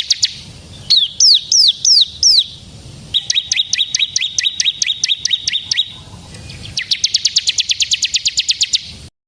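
A small songbird singing loud, high-pitched phrases. It opens with a fast trill, then gives five loud down-slurred notes, then a slower trill of about five notes a second over a held high tone, and ends with another fast rapid trill.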